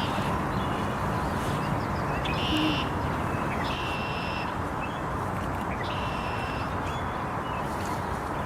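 A bird repeating a short, high, buzzy call roughly every second and a half, over a steady rushing background.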